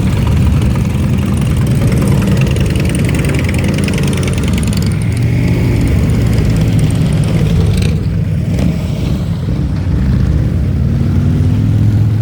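Motor vehicle engine running at low speed close by: a steady, loud low rumble.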